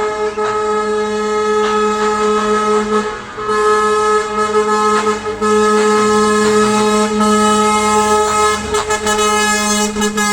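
Truck air horns sounding in long, steady held blasts, several tones together, with a short break about three seconds in.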